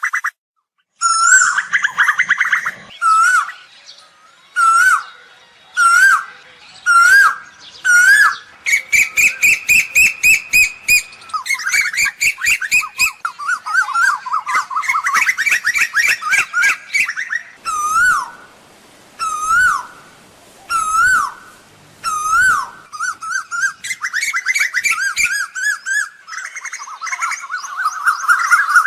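Asian koel calling loudly: a string of short, sharply rising notes, broken by several long runs of rapidly repeated notes.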